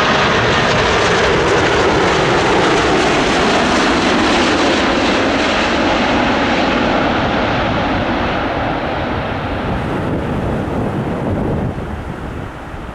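Jet engine noise from a landing Boeing 747-8F freighter passing close by, then receding: the high-pitched part of the noise dies away steadily and the sound grows quieter near the end.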